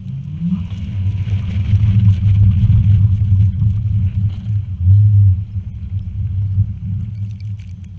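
Hummer H3 driving: a steady low rumble of engine and road noise that swells louder in the middle, with a faint hiss above it.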